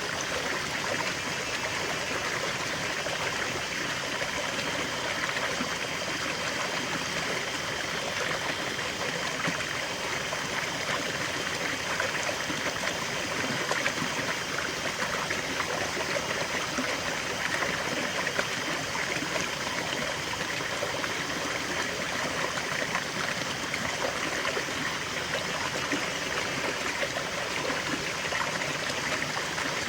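River water flowing over stones, a steady rushing and babbling that keeps an even level.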